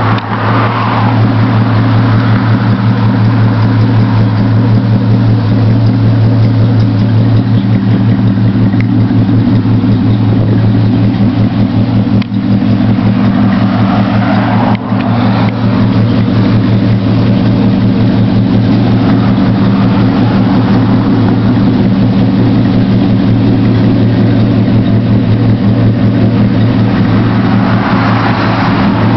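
1977 Chevrolet C10's carbureted engine idling steadily through Flowmaster mufflers, warming up after a cold start.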